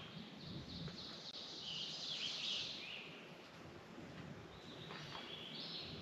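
Bird song: one long phrase in the first half and a shorter one near the end, over a faint hiss of background noise.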